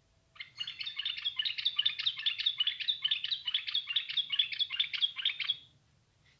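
A bat squeaking: a fast run of shrill chirps, several a second, lasting about five seconds and then stopping.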